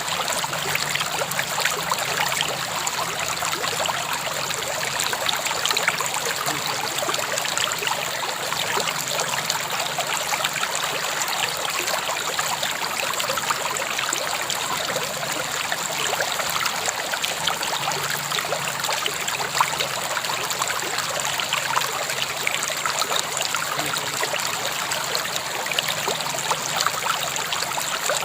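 River water flowing steadily, an even rush of moving water with fine splashing throughout.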